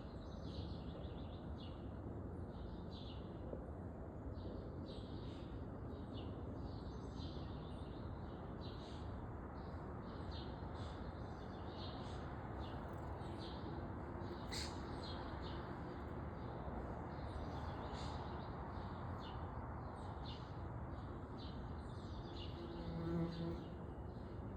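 Small songbirds at a feeder, giving many quick, high chirps throughout over steady outdoor background noise. Near the end an insect buzzes briefly close by.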